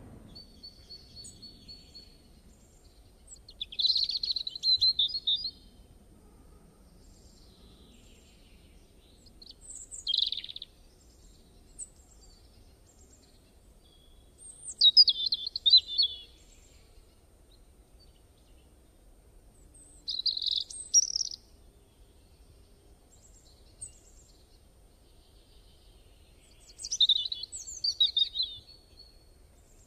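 Birds singing and chirping in five short bursts of quick, sliding calls, each a second or two long and spaced several seconds apart.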